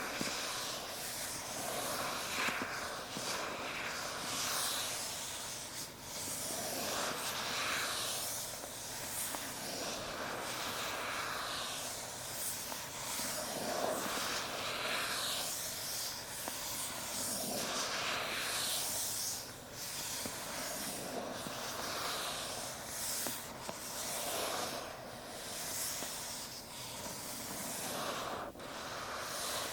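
Hands handling Apple product boxes (iPhone and AirPods boxes): a run of soft, scratchy swishes of fingers rubbing and sliding over the smooth cardboard, with a few light taps.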